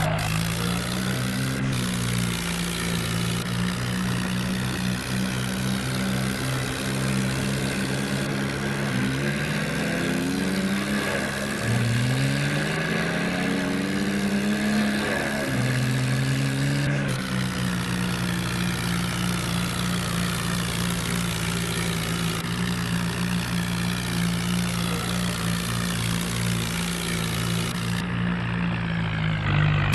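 Ford 3600 tractor engine running steadily, with the engine note rising several times around the middle as it is revved, then settling back to a steady run.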